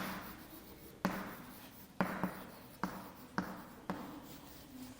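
Writing on a board: a string of about seven sharp taps, each followed by a short scratchy stroke, as words are written out.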